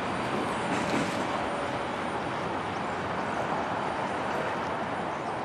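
Freight train rolling past, a steady rumble and hiss of its cars that eases slightly near the end.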